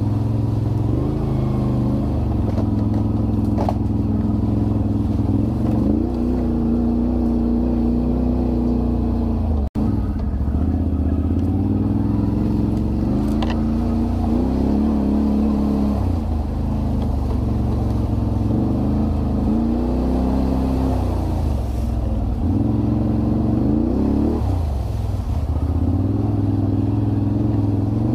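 Can-Am Renegade 1000 ATV's V-twin engine running while riding, its pitch rising and falling repeatedly with the throttle. The sound drops out for a moment about ten seconds in.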